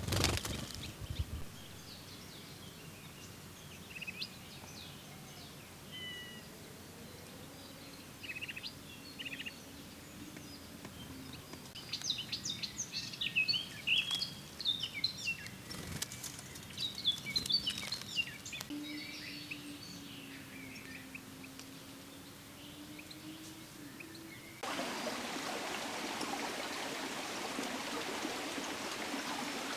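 Small songbirds chirping and calling in short, scattered notes, busiest around the middle, over faint outdoor background noise. About three-quarters of the way through the sound cuts abruptly to a steady rushing noise, like running water.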